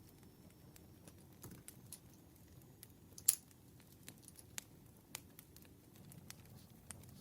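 Campfire crackling: scattered sharp pops and clicks over a low, steady rustle of burning wood, with one louder pop a little past three seconds in.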